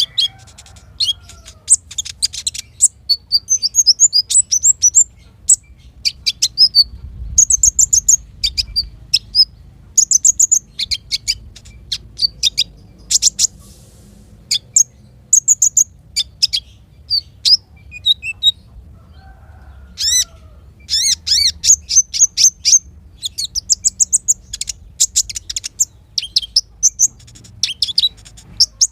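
Small songbirds singing in rapid bursts of short, high chirps and trills, with brief pauses between phrases.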